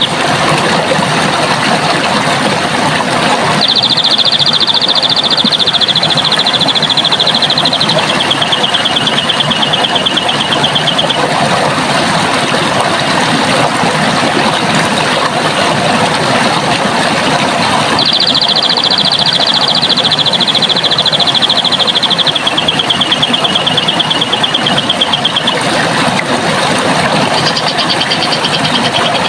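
Steady rush of running water with a songbird's long, rapid high trill heard twice, each trill stepping down in pitch partway through, and a shorter trill near the end.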